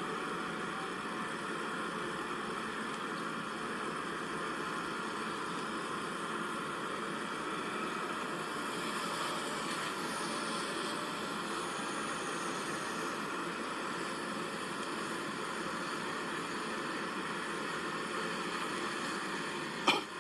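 Steady rushing wind noise on the microphone, with a single sharp click near the end.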